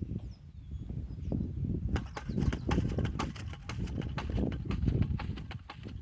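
Hand jab corn planter (matraca) clacking as it is worked, a dense run of sharp clicks starting about two seconds in over a low rumble. A bird chirps briefly near the start.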